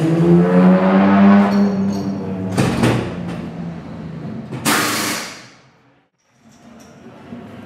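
Racing car engine running with its pitch rising, then a sharp knock and a loud hissing burst, all fading to near silence about six seconds in.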